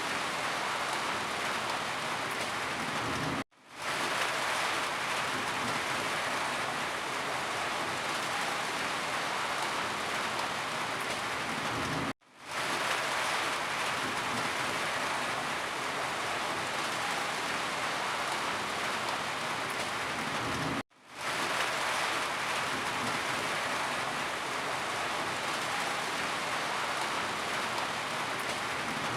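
Steady rain falling. It cuts out abruptly three times, about every nine seconds, and each time fades back in within about half a second: the joins of a short rain recording played on a loop.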